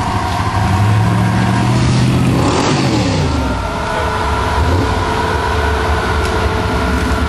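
Off-road truck engine running, swelling about two and a half seconds in and then dropping sharply in pitch, like a vehicle driving past, before running on at a lower steady note.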